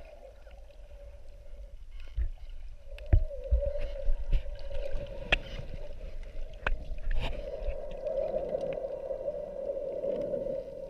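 Underwater sound: a steady hum with water gurgling, scattered sharp clicks and low thumps, the hum growing louder about three seconds in.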